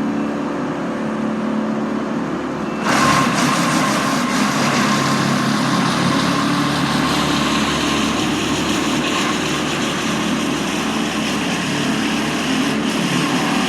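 Engines of tree-removal equipment running steadily, joined about three seconds in by a louder, hissier machine noise that carries on.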